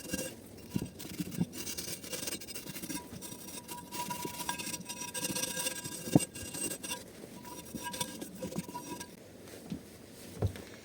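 Scrubbing and scraping on a small engine's crankcase parts during cleaning, with a few light knocks of metal parts being handled.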